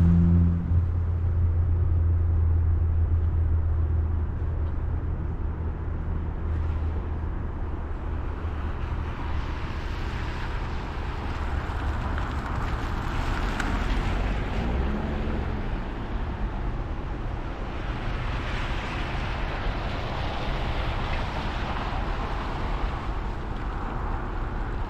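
Vehicle driving on the road, heard from inside the cab: steady road and engine noise with a low hum that fades after several seconds, and a rushing tyre noise that swells twice.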